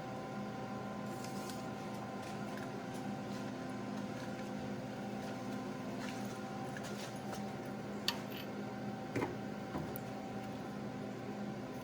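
A steady mechanical hum with a few light clicks and knocks about two-thirds of the way through.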